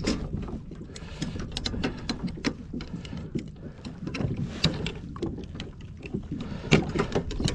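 Crab pot being emptied: irregular sharp clicks, knocks and splashes as crabs and the pot are handled.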